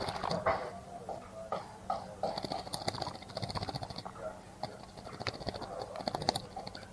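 Small bird bathing in a bird bath, splashing water in quick bursts, about 2 and about 4.5 seconds in.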